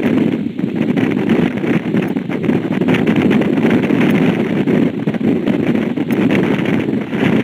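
Steady, loud rushing noise of a motorboat underway, with wind on the microphone.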